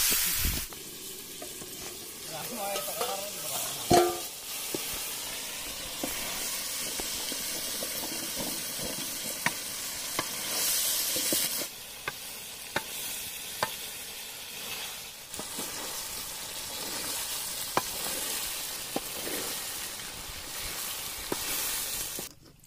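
Pork frying in hot oil in a metal wok, sizzling while a wooden spatula stirs it, with sharp knocks of the spatula against the pan every few seconds. The sizzle is loudest in the first moment and again about ten seconds in.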